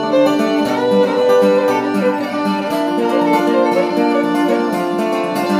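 Instrumental break in a bluegrass-flavoured country song: a fiddle plays the melody over guitar accompaniment.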